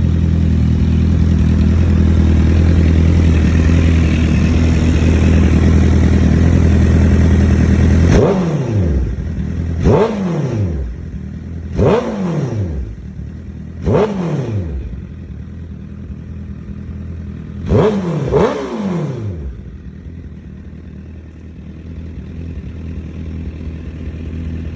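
Motorcycle engine with a modified exhaust running steadily at a raised idle. It is then given five sharp throttle blips, the first three about two seconds apart and the last two close together, each rev falling straight back to idle.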